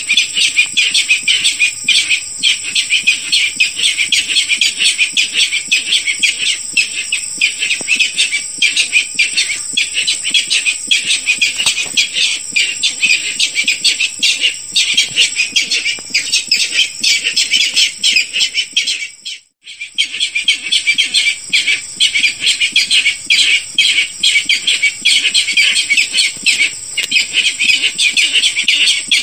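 Barred rail calls used as a hunting lure: dense, rapidly repeated high calls with a steady high whine behind them. The calls break off for a moment about two-thirds of the way through, then resume.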